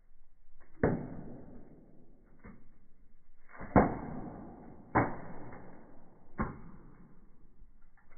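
Burning firewood in a fireplace popping and crackling: five or six sharp pops, each trailing off in a hiss, the loudest about four seconds in.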